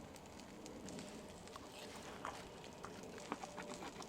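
Campfire crackling faintly, with scattered small pops and snaps.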